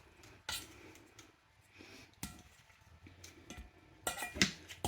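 A few sharp clicks and knocks from salad chopper blades working through cooked chicken, spaced a second or more apart and coming closer together near the end.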